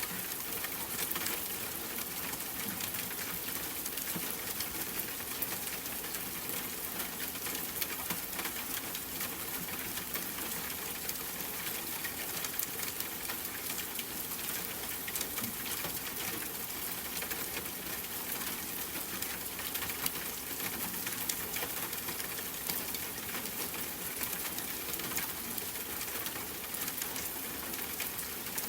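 Steady rain pattering, with many small sharp drop ticks.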